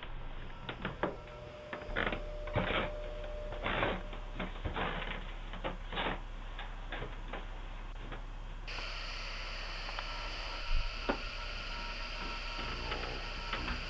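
Irregular clicks and knocks over a steady low electrical hum. About nine seconds in, the background changes to a steady hiss.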